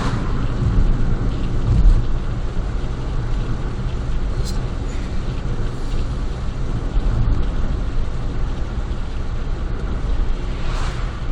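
Honda Life JB5's 660 cc three-cylinder engine running through a Rosso Modello GT-8 aftermarket muffler while driving: a steady low exhaust drone heard from inside the cabin with a window open.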